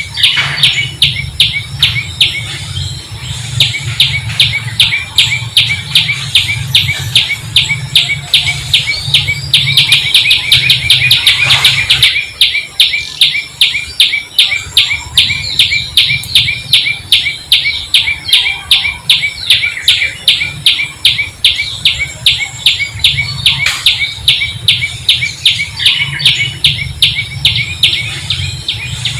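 Bird chirping in a fast, even series of short high chirps, about four a second, over a steady low rumble.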